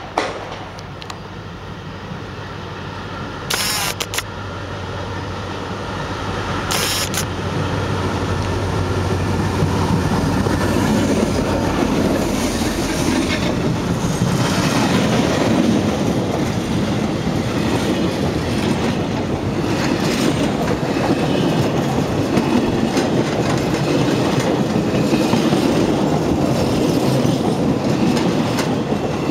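An SNTF class 060DM EMD diesel locomotive approaches, its engine hum growing louder over the first ten seconds or so. Then a long freight train of boxcars, tank wagons and flat wagons rolls past, its wheels clacking steadily over the rail joints.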